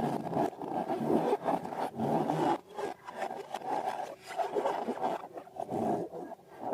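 Rubber balloons and slime being handled, giving irregular rubbing and squishing sounds that swell and dip unevenly.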